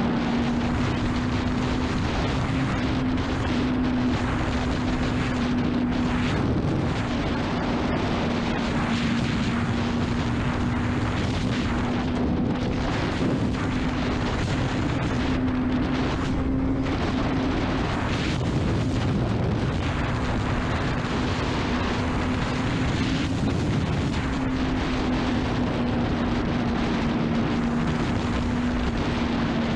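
Honda CBR600RR's inline-four engine running at a steady, nearly constant pitch while riding, with wind noise over the microphone.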